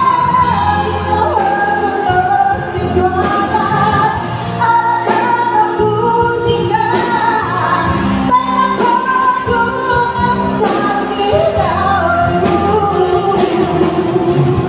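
A pop ballad duet sung over its instrumental accompaniment, the voice holding and sliding between long notes.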